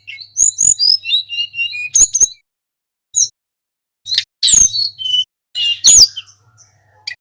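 A flycatcher singing: short phrases of quick, high whistled and chirping notes that jump and slide in pitch, with a pause of a second or so in the middle before a louder phrase.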